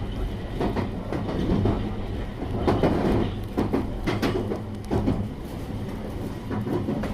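Running sound inside a JR West 223 series 6000-subseries motor car (KuMoHa 223) at speed: a steady low traction-motor hum under the wheel noise, with the wheels knocking irregularly over rail joints.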